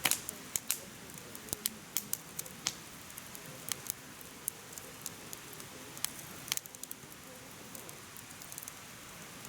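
Firewood burning in a mesh fire pit, crackling with irregular sharp pops over a low steady hiss of flame. The loudest pop comes right at the start, with a quick run of pops about six and a half seconds in.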